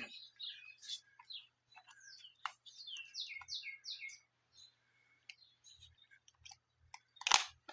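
A small bird chirping: a run of about six quick falling notes, with scattered clicks and a louder knock near the end.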